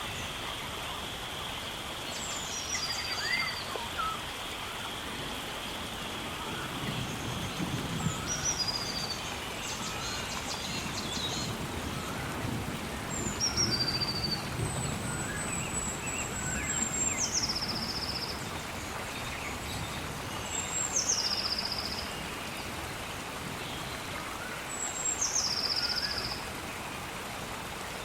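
Rainforest ambience: a bird gives a high call about every four seconds that drops in pitch and ends in a short trill, over a steady hiss of rain. A steady high insect-like drone fades out in the first few seconds.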